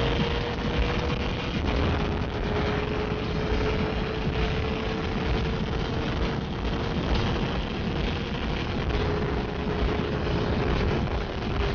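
Yamaha R6S sport bike's inline-four engine running steadily at high revs at speed, its high note holding with small dips about two seconds in and again near the end, under heavy wind rush on the microphone.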